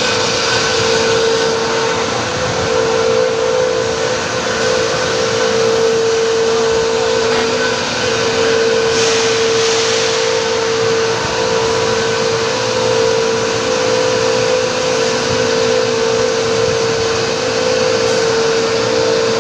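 Industrial machinery running steadily: a loud, even rush of moving air with a strong, steady hum tone held throughout.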